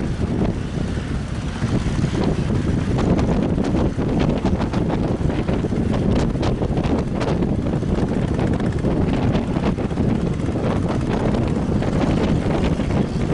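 Strong wind buffeting the microphone: a dense low rumble with crackling gusts through the middle, over sea noise.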